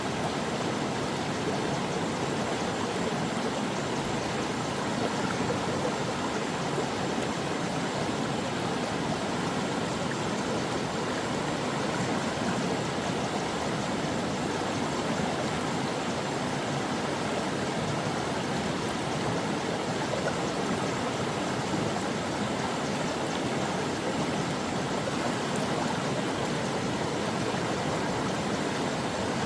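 Stream water flowing steadily over rocks, a constant rushing babble.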